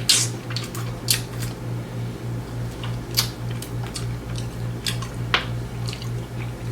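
Close-miked eating sounds: wet smacking and crunching clicks of a person chewing glazed chicken wings, coming at irregular moments, over a steady low hum.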